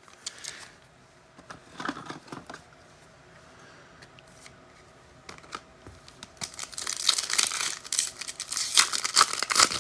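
Foil trading-card pack wrapper crinkling and tearing as it is opened: a few light rustles, then a louder, busier crinkle over the last three seconds.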